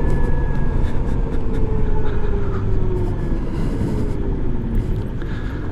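2018 Zero SR electric motorcycle riding, its motor whine slowly falling in pitch as the bike slows, over steady wind and road rumble.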